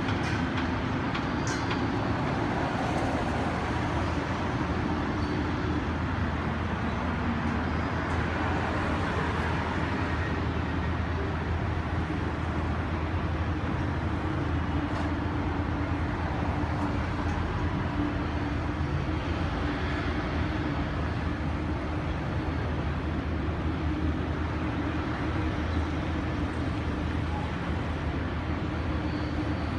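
Steady engine rumble with a constant low hum under a wash of noise, unchanging throughout.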